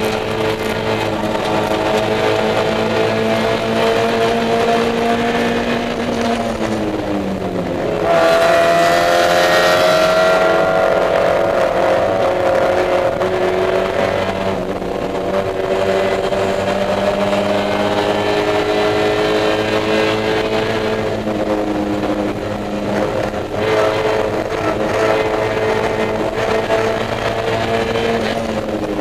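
Mazda Miata race car's four-cylinder engine heard from inside the cockpit, running hard at high revs. The pitch climbs slowly, drops away around seven seconds in, then comes back louder about eight seconds in and goes on rising and easing with the throttle.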